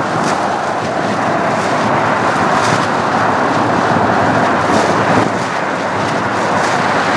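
Jet airliner's engines making a loud, steady roar.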